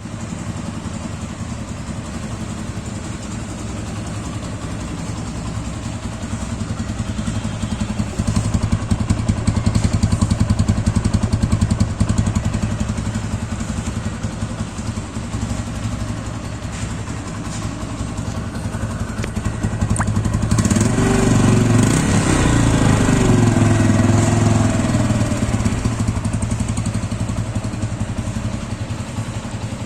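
TVS Apache RTR 160 2V's single-cylinder four-stroke engine running through its stock exhaust: a steady idle, raised to a higher, louder note about eight seconds in for a few seconds, then revved again about twenty seconds in, the pitch rising and falling before it settles back to idle.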